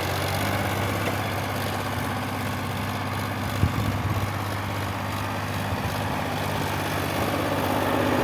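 Sonalika 745 tractor's diesel engine running steadily, with a single sharp knock about three and a half seconds in.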